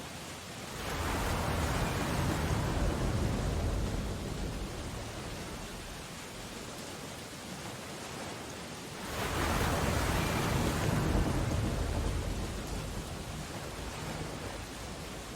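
Storm ambience: steady rain hiss with two heavy ocean waves breaking, the first about a second in and the second about nine seconds in, each swelling up deep and full and then washing away over several seconds.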